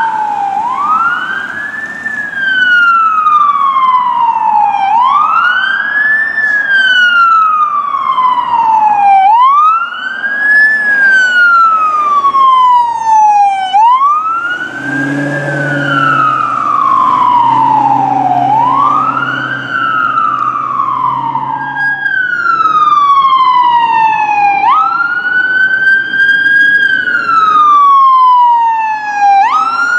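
Emergency vehicle siren wailing: each cycle rises quickly and falls slowly, repeating about every four seconds. A low horn sounds twice about halfway through.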